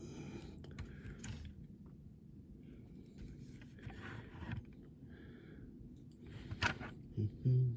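Soft, intermittent scraping and rubbing from hand detailing work on a small diecast model car's window frames, with a brief low hum from a person's voice near the end.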